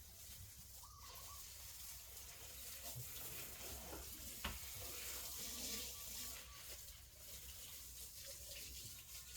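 Faint, steady running water, as from a tap during cleaning, with one sharp click about four and a half seconds in.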